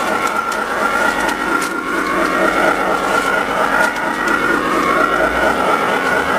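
A train running steadily along the track: a continuous mechanical drone with a wavering whine and scattered faint clicks.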